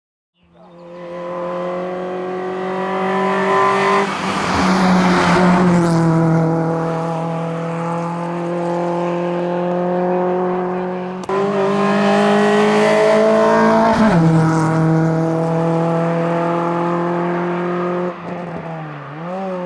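Kia Picanto hillclimb car's engine running flat out at high revs, fading in at the start. The note breaks and shifts sharply about 11 and 14 seconds in. Near the end the revs fall, dip and climb again.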